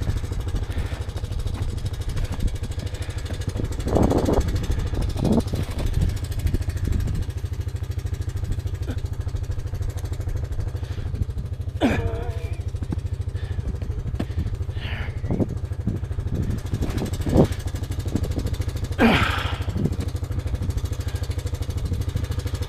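Steady low rumble of wind buffeting the microphone, with a few brief scrapes and knocks about 4, 12, 17 and 19 seconds in.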